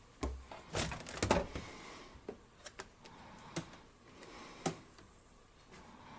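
Irregular light taps and clicks of fingertips on a smart refrigerator's touchscreen, a cluster about a second in and single taps spread over the next few seconds.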